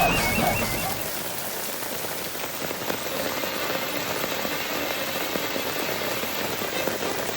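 Steady rain falling and pattering on surfaces. A song fades out in the first second.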